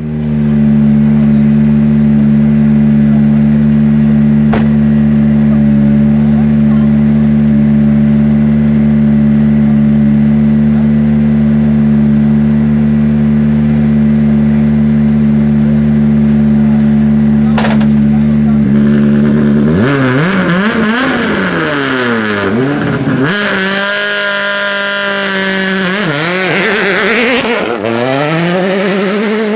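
Rally car engine idling steadily for about nineteen seconds, then revving hard, its pitch climbing and dropping several times as it accelerates through the gears.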